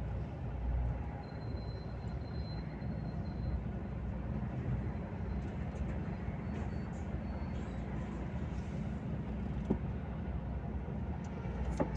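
Volvo FH 460 truck's 13-litre six-cylinder diesel running at a steady cruise, a low drone mixed with road rumble. Two short clicks sound near the end.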